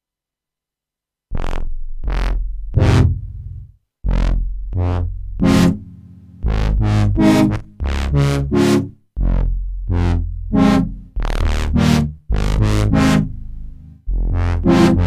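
Sequential Prophet Rev2 analog polysynth playing a custom patch: after about a second of silence, deep sustained bass notes that change every second or two, with short bright plucked stabs over them.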